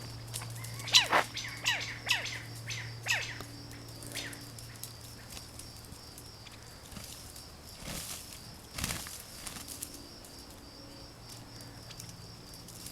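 Birds fighting: a run of short, sharp falling chirps over the first four seconds, then two short bursts of wing-flapping scuffle about eight and nine seconds in.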